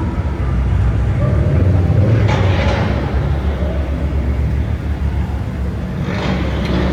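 A car engine running with a steady low rumble, with two short bursts of hiss about two and six seconds in.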